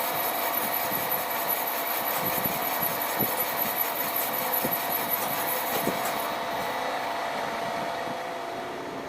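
A shop machine tool running with a steady whine and a hiss, with light clicks now and then. The high hiss drops away about six seconds in.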